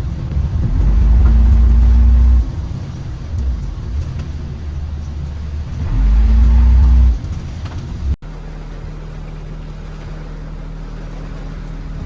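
Toyota Carina's 5A-FE four-cylinder engine on the move. Its note swells loud twice, about a second in and again around six seconds, as it accelerates. After a sudden break at about eight seconds it settles to a steady, lower drone.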